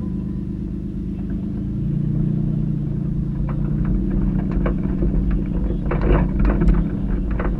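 Ford Taurus engine running with a low rumble that grows louder about two seconds in. From about three and a half seconds on, a quick series of sharp knocks and clatters comes through, loudest near the end, as the car is driven over the rough course.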